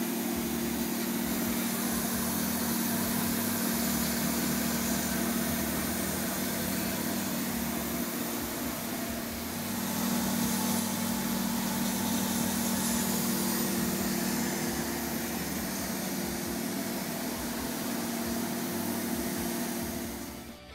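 MultiCam 3000 series CNC router running its 5.5 hp Colombo spindle while it engraves numbers into cardboard. A steady spindle tone with one overtone sits under an even hiss, dips slightly about nine seconds in, and cuts off suddenly near the end.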